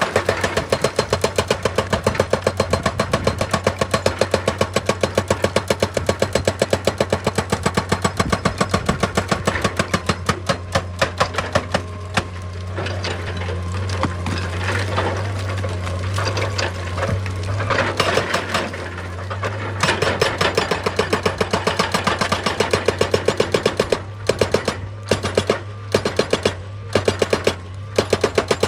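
Excavator-mounted hydraulic rock breaker hammering stone with rapid, evenly spaced blows, several a second, over the steady hum of the excavator's diesel engine. It pauses briefly a couple of times, and near the end it stops and restarts in short bursts.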